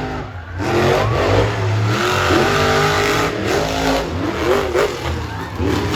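Monster truck's supercharged V8 revving in repeated blips over a steady low rumble, its pitch swinging up and down with each rev.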